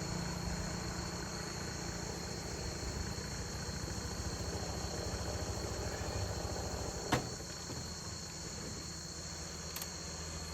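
A small engine running steadily with a low pulsing rumble, under a steady high-pitched whine. A single sharp click about seven seconds in.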